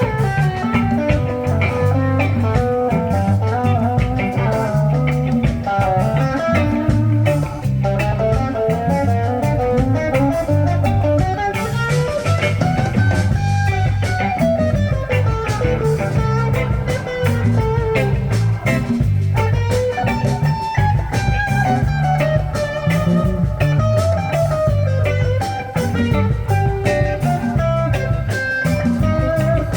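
Live blues band playing an instrumental break: a guitar carries a winding melody over bass guitar and drums, with no singing.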